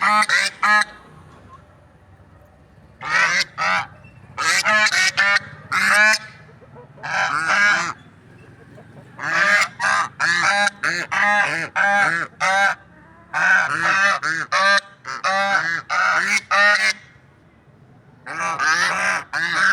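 Guinea fowl calling: runs of rapid, harsh, repeated calls broken by short pauses of about a second.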